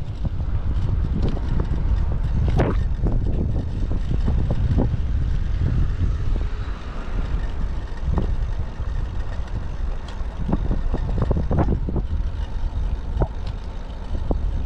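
Typhoon wind buffeting the microphone: a steady low rumble broken by scattered short knocks and gust peaks.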